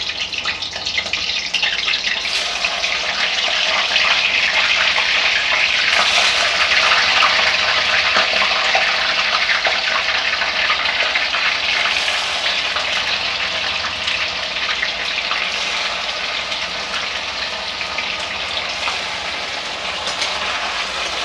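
Paneer cubes sizzling in hot mustard oil in a steel kadai as they are dropped in to fry. The sizzle swells over the first few seconds as more cubes go in, then eases slowly.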